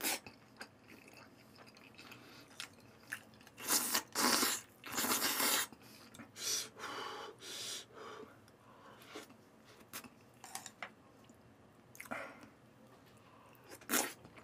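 Close-miked chewing and mouth noises of someone eating spicy braised short ribs with kabocha squash, rice and kimbap: scattered small wet clicks, with a few louder noisy stretches about four to five seconds in and again around seven seconds.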